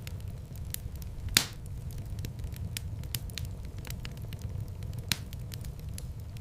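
Wood fire in a fireplace crackling over a steady low rumble of flames, with scattered sharp pops; the loudest pop comes about a second and a half in, and another about five seconds in.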